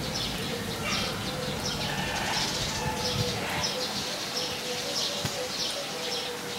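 Birds chirping and calling over a steady outdoor background.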